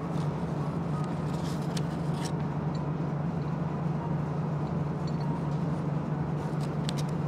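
Steady running rumble and low hum inside the cabin of a moving KiHa 185-series diesel railcar. A few light rustles and clicks of a paper sweets box and card being handled come through about two seconds in and again near the end.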